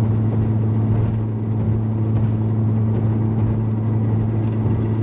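Turbocharged 8-valve four-cylinder engine of an MK4 VW Jetta wagon droning steadily at highway cruise on light throttle in fifth gear, heard inside the cabin over steady road noise.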